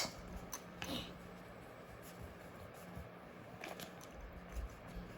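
Faint scratches and small taps of a pencil writing on paper, a few separate strokes over a low steady room hum.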